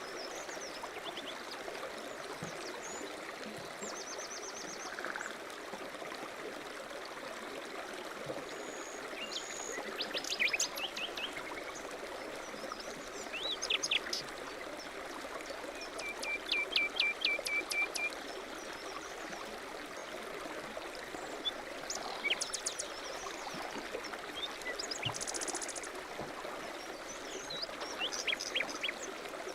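A stream running steadily with small birds chirping and trilling over it: a quick series of repeated notes about a third of the way in, and a short buzzy trill later on.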